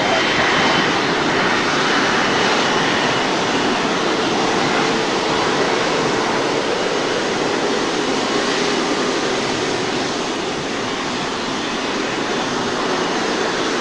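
Jet aircraft engines running steadily: a constant rushing noise with a faint held tone, easing off slightly near the end.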